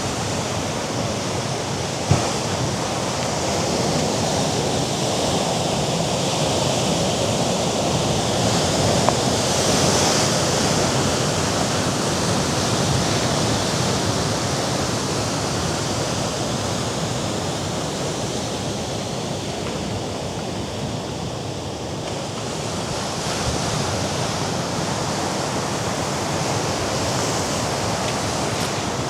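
Mediterranean sea waves washing against the rocks below the cliff, a steady rushing that swells around the tenth second and again later on. There is a single sharp tap about two seconds in.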